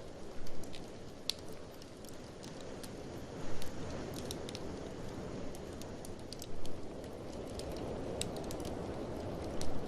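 Wood fire in a fireplace crackling, with frequent sharp pops and a few louder snaps, over a steady low rush of wind.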